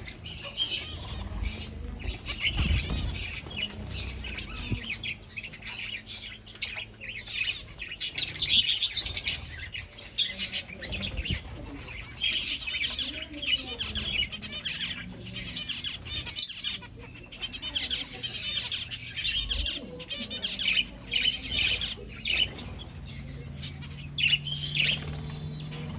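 A colony of aviary finches chirping busily, many short calls overlapping in bursts, with a few brief clicks among them.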